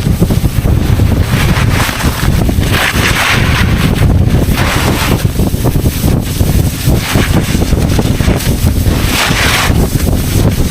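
Wind buffeting the microphone in a steady low rumble, with the hiss of 99 cm skiboard edges cutting through snow swelling up in recurring swishes every couple of seconds as the rider turns.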